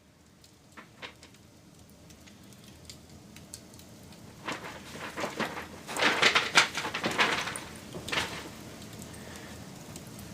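Wood fire crackling and popping over a steady hiss, with a few scattered snaps at first and then a dense burst of loud crackles about halfway through that dies back after a few seconds.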